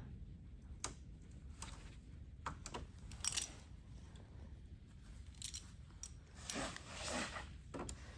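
Scattered light clicks and scrapes of a hand tool working at a seized, rusted screw, with a louder scrape about three seconds in and a longer one near the end.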